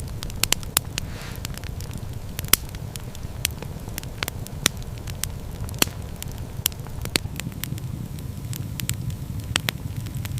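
Wood fire crackling, with sharp, irregular pops over a low, steady rumble.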